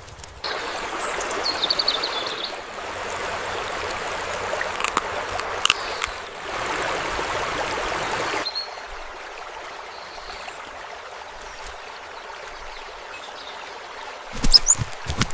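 A stream running, a steady rushing of water that turns quieter and thinner about eight seconds in. A brief high chirp sounds about a second in, and a few low knocks come near the end.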